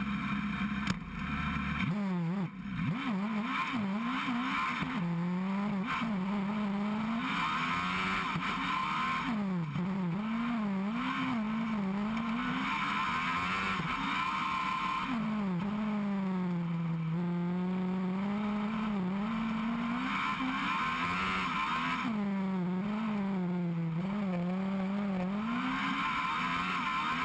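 Race car engine driven hard in a hillclimb run, its revs climbing and falling over and over as it is worked through gears and corners, with two brief drops in the sound near the start.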